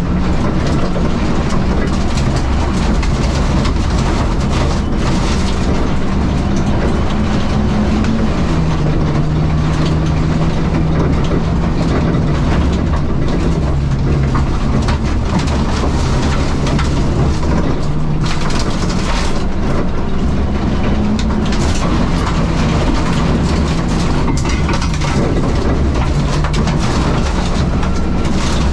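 Supercharged four-cylinder engine of a modified R53 Mini Cooper S driven hard, heard from inside the stripped cabin, with steady loud tyre and loose-surface noise over it. The engine note steps down about a third of the way in and shifts up and down again later as the gears and throttle change.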